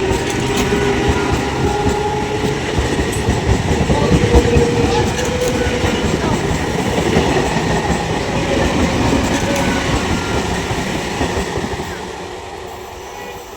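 Train running past the platform, its wheels clattering over the rail joints under a steady rumble. The noise falls away over the last couple of seconds as the train goes by.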